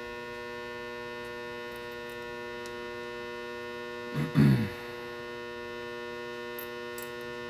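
Steady electrical mains hum, an even buzz with many overtones. About four seconds in there is one short voiced sound, like a brief spoken syllable.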